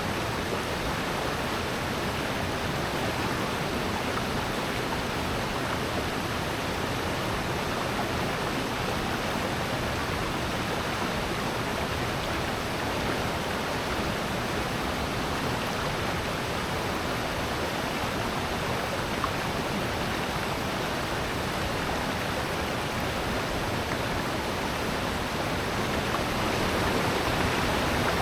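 Steady rushing of water in a rocky valley stream, falling over cascades, an even unbroken wash of sound that grows slightly louder near the end.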